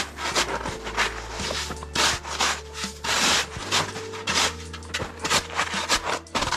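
Snow shovel scraping hard-packed snow off a wooden deck in repeated strokes, about two a second, with one longer scrape near the middle.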